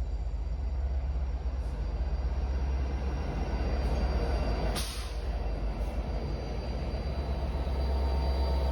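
Train passing with a steady, deep rumble and rolling noise, and a short sharp hiss or clank about five seconds in.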